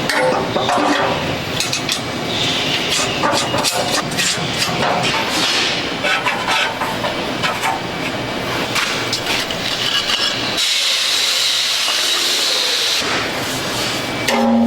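Workshop noise of metalworking: a dense run of clattering knocks and rattles, with a steady hiss for about two seconds near the end.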